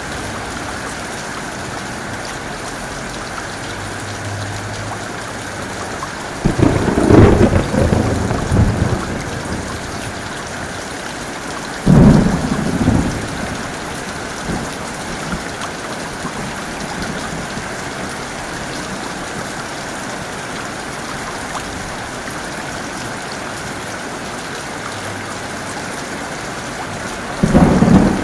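Heavy rain falling steadily, with thunder. A loud clap comes about six and a half seconds in and rumbles on for a couple of seconds, a sharper crack follows about twelve seconds in, and another clap starts near the end.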